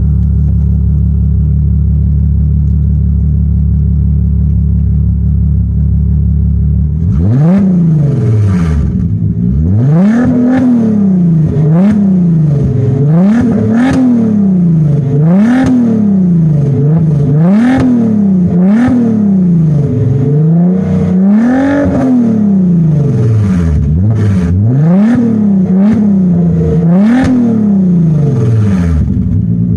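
Volkswagen Passat's 3.6-litre VR6 engine, exhaust with the mufflers and suitcase resonator removed and the catalytic converters gutted, idling and then revved in about a dozen quick blips, roughly one every two seconds, before settling back to idle near the end.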